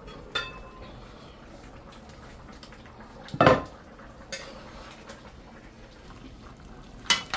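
Metal pots and utensils clanking in a kitchen. A ringing clank comes about a third of a second in, the loudest knock about three and a half seconds in, and a couple more clanks near the end.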